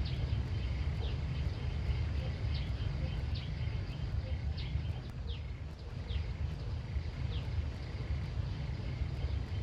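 Rural outdoor ambience: a bird repeats short, high, descending chirps about once a second over a steady low rumble.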